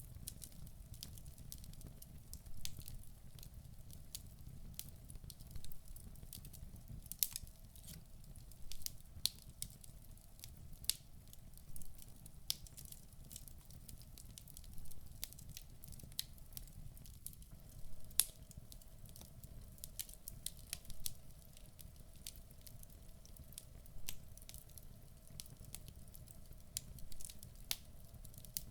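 Wood fire burning in a fireplace: irregular sharp crackles and pops from the burning logs over a low, soft rumble of the flames.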